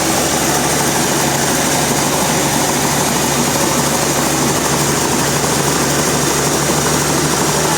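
Sawmill machinery running steadily: a constant loud mechanical drone with a low hum held at one pitch and no change in level.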